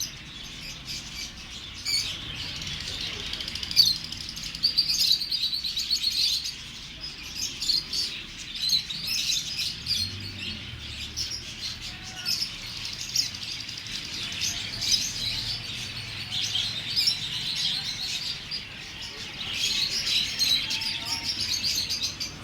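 A dense chorus of many small birds chirping and tweeting without a break.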